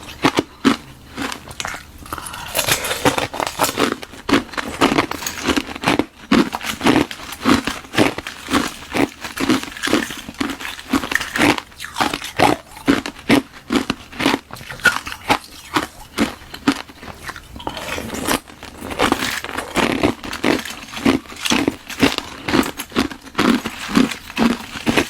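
Ice being bitten and chewed close to the microphone: a hollow shell of frozen water with frozen milk tea inside, crunched in a steady run of sharp crunches, roughly two a second.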